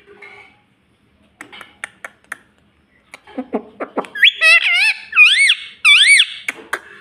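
Pet ring-necked parakeet vocalising: a few soft clicks, then low falling squawks about three and a half seconds in, followed by a run of warbling, wavering whistled calls that swoop up and down in pitch until about six seconds in.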